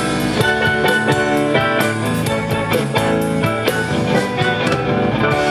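Live band with electric guitar and drum kit playing an instrumental passage after the last sung line of a song, with no vocals.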